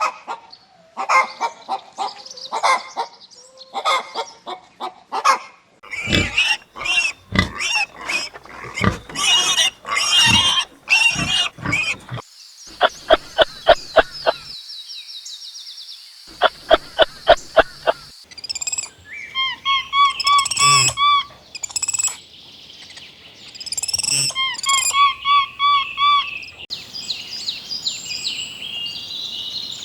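A series of different farm animal calls, one kind after another, changing every few seconds: loud repeated calls in the first half, then rapid clicking and chirping calls.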